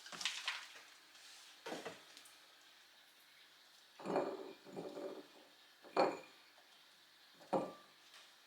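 Kitchenware being handled and set down: about six separate knocks and clinks at uneven intervals, the sharpest about six seconds in.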